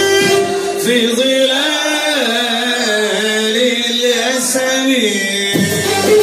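Arabic song: a singer holds one long, wavering vocalised note for about four and a half seconds over the band, without words, and the instrumental accompaniment comes back in near the end.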